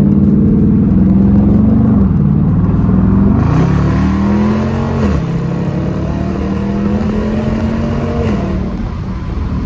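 2020 Dodge Challenger R/T's 5.7-litre Hemi V8, heard from inside the cabin, accelerating with rising revs that drop at gear changes about two and five seconds in, then pulling steadily and easing off near the end.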